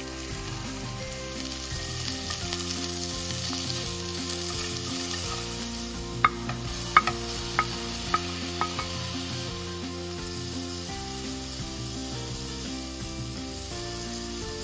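Sliced onions and shredded chicken sizzling in oil in an aluminium pan, the sizzle louder in the first half. A handful of sharp clinks about six to nine seconds in, as meat is tipped in from a plate against the pan.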